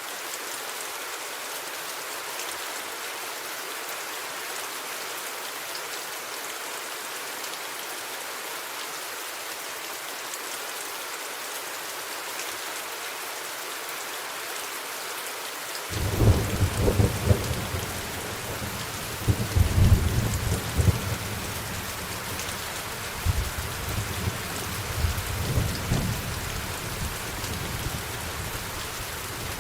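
Steady rain falling. About halfway through, thunder breaks in suddenly and rumbles on in several swells, dying away near the end.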